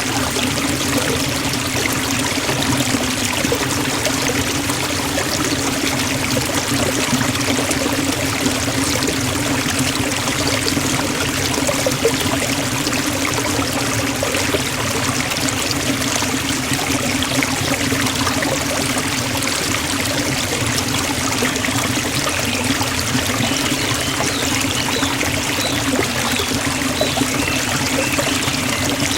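Forest waterfall rushing steadily, a constant full splashing roar of falling water with no breaks.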